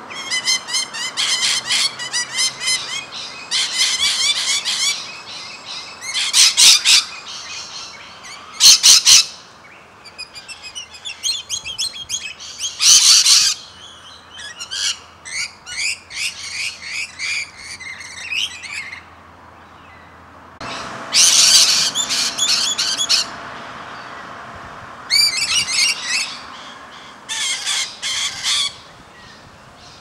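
Rainbow lorikeets calling in repeated bursts of high-pitched chattering and squawks, with a brief lull a little past the middle.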